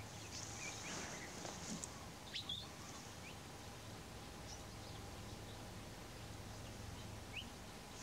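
Wild birds giving scattered short chirps and quick rising whistles, the loudest a pair about two and a half seconds in, over a steady low hum.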